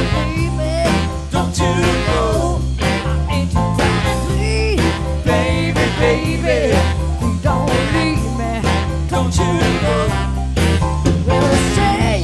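Live band music: drums and bass keep a steady beat under a lead line of wavering, bending notes, an instrumental passage between sung lines.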